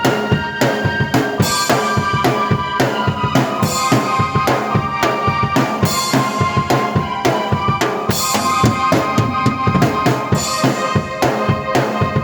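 Drum kit playing a steady driving beat of kick and snare, several strokes a second, together with keyboard chords and held synth tones.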